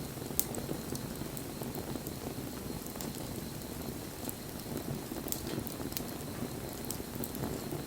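Wood bonfire burning: a steady low rush of flame with scattered sharp crackles and pops, the loudest about half a second in.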